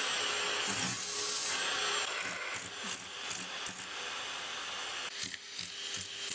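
Vacuum cleaner running: a steady airy hiss over a faint motor hum, changing abruptly a few times where the sound is chopped, with some short rubbing noises underneath.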